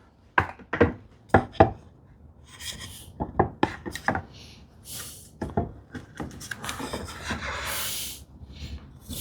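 Wooden board being worked into a hand-cut housing dado to test the fit: a series of light wooden knocks and clicks, then wood rubbing against wood as it slides in tight.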